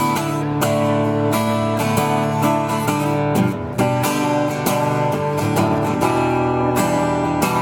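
Acoustic guitar strummed in a steady rhythm, the instrumental introduction of a calm song, with a brief pause about three and a half seconds in.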